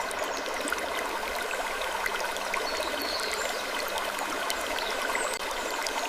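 Continuous rushing, water-like noise with many faint small clicks and ticks scattered through it, in an ambience recording of gently creaking wood.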